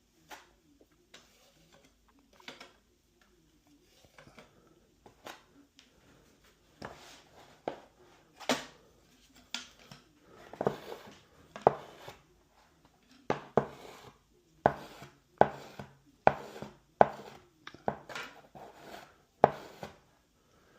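Hand tools knocking and scraping during drywall repair work: sparse sharp clacks at first, then a knock about once a second from about halfway through.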